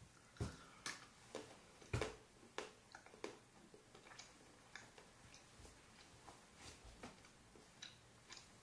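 A person chewing a piece of dark chocolate topped with rose petals: faint, irregular mouth clicks. The clicks are strongest in the first few seconds, loudest about two seconds in, and then grow softer.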